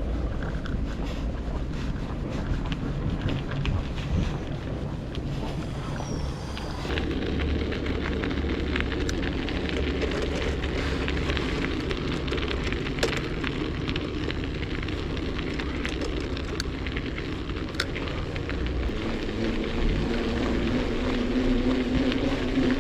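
Bicycle riding over crusted snow: a continuous crackling crunch of the tyres on the crust, with a low rumble of wind on the microphone. A steady hum comes in near the end.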